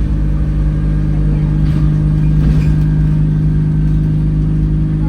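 Alexander Dennis Enviro200 single-deck bus's diesel engine running steadily, a constant low drone heard from inside the bus.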